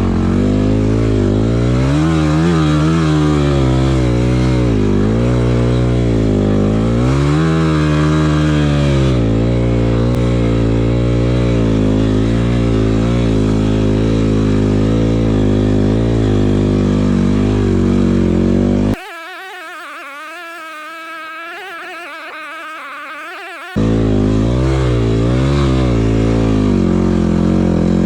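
Yamaha WR250F single-cylinder four-stroke enduro motorcycle engine running under load, with the revs rising and falling twice in the first ten seconds. About two-thirds of the way through the loud engine cuts off abruptly for about five seconds, replaced by a thinner, quieter sound, then comes back.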